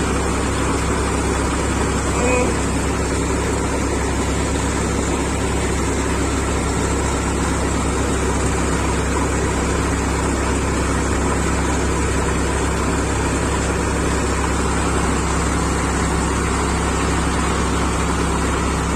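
Tractor diesel engine running steadily at a constant speed while threshing paddy.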